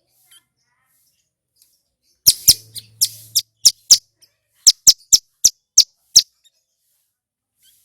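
Male hill prinia (ciblek gunung) singing: a series of about a dozen sharp, loud, high notes, roughly three a second, starting about two seconds in and stopping about six seconds in.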